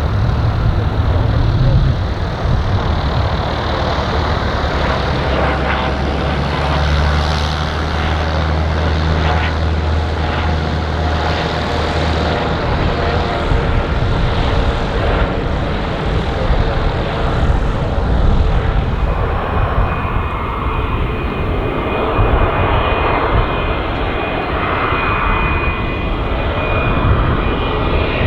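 Fixed-wing aircraft engines running, loud and steady: a low drone through roughly the first half, then a high steady whine coming in past the middle.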